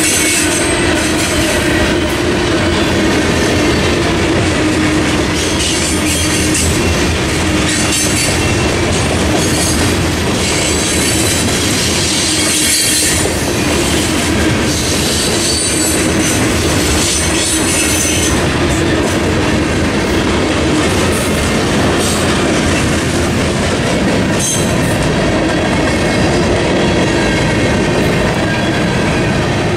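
Freight cars of a mixed freight train rolling steadily past, their wheels clacking over the rail joints, with high-pitched wheel squeal coming and going.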